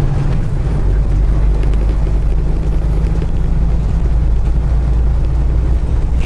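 Semi truck's diesel engine running while driving, with road noise: a loud, steady low drone.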